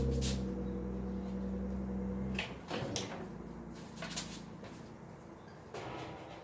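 A steady low hum that cuts off about two and a half seconds in, followed by several light knocks and clatters of parts being handled during crib assembly.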